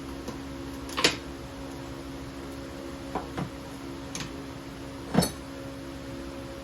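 Scattered metal clanks and clinks of transmission parts and tools being handled during a gearbox teardown, about five in all, the loudest about a second in and about five seconds in. A steady hum runs underneath.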